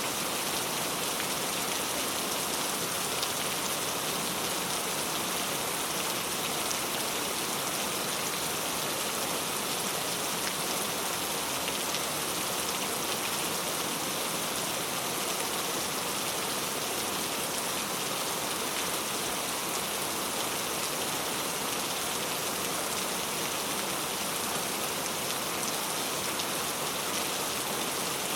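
Steady rain falling, an even hiss of many drops hitting a surface with no thunder.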